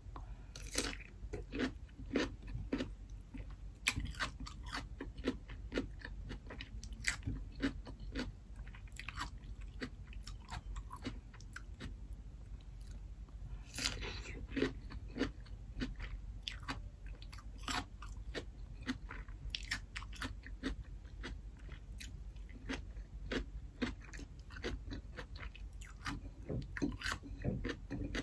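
Close-miked crunching and chewing of raw cucumber: crisp crunches come every second or so, with a denser run of bites about halfway through.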